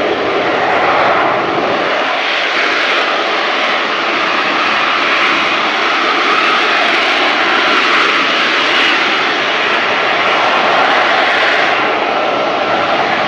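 Lockheed Martin F-35B Lightning II's jet engine and lift fan in short take-off and vertical landing mode, with the jet hovering on its thrust: a loud, steady jet noise with no letup.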